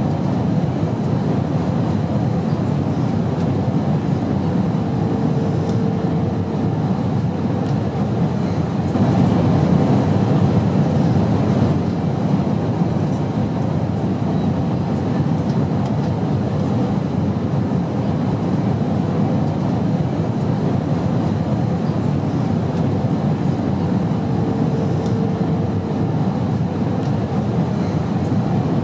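Steady airplane noise: an even, low rumble that swells slightly about nine seconds in and eases back a few seconds later. A faint hum comes in briefly twice.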